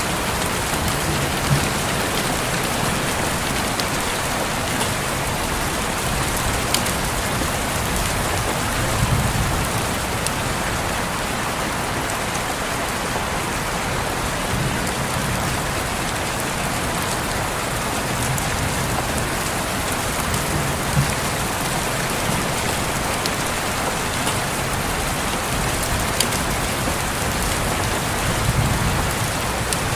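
Steady rain falling on a window glass, with scattered sharper ticks of single drops and a few soft low rumbles.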